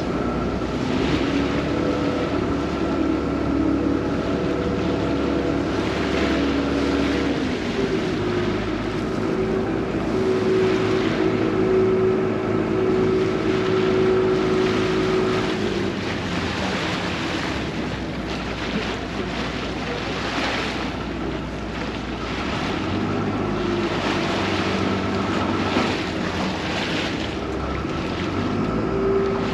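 A vaporetto water bus's engine running, with water rushing and splashing along the hull and some wind on the microphone. The engine note shifts in pitch several times.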